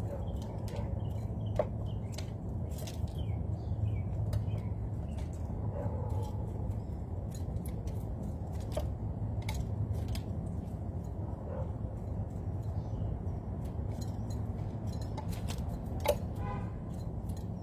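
Small birds chirping faintly, with many scattered sharp clicks and taps over a steady low rumble, and a short call near the end.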